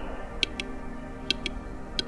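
Wild turkey: four short, sharp clicking notes over a steady ambient music drone.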